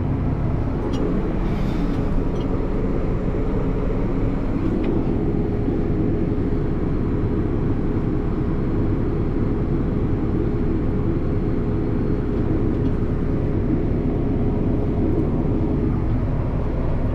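Farm tractor engine running steadily, heard from inside the cab while it drives a grain cart's PTO unloading auger. A steady hum joins about four and a half seconds in and holds.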